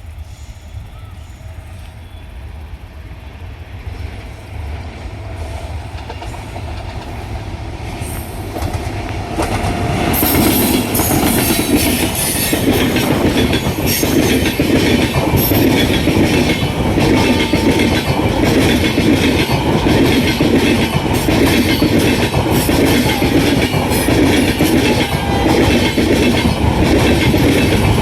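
Electric-hauled passenger express train going past on the track: a rumble that grows louder as it approaches, then from about ten seconds in a loud, steady clatter of wheels clicking rhythmically over the rail joints as the coaches pass.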